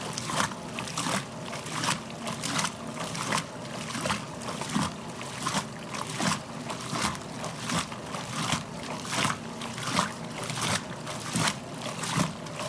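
A 1969 Westinghouse washing machine's ramp action agitator churning a load, water sloshing and splashing in the tub with each stroke in an even rhythm a little under twice a second. The splashing is heavy at this medium water level.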